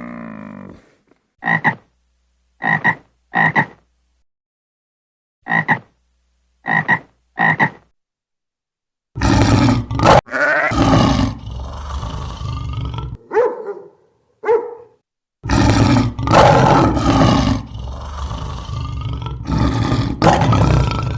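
Animal calls: six short croaking calls in two groups of three, then from about nine seconds in louder, longer, rougher calls that run almost without a break.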